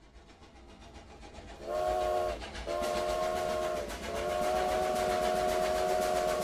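Train rumble growing louder, then a train whistle sounding three blasts: a short one, a longer one and a long one. Each blast is a steady chord of several tones.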